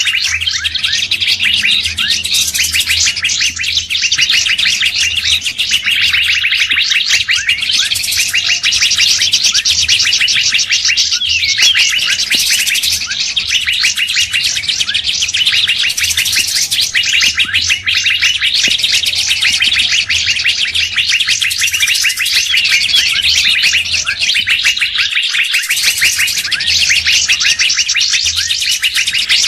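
Dense, unbroken chorus of songbird calls: many rapid chirps and trills overlapping at once, as in a layered bird-lure (pikat) recording of species such as Asian fairy-bluebird, leafbird and drongo. A faint steady low hum runs underneath.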